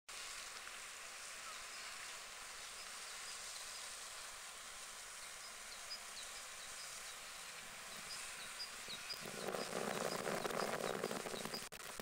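Steady outdoor hiss with a bird's short, high chirps repeating about three times a second from about five seconds in. A louder rustling noise comes in about nine seconds in and stops just before the end.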